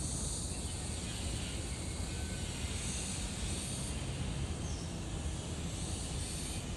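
Steady outdoor background noise: a low rumble under a high hiss, with brief patches of high hiss about three seconds in and again near the end.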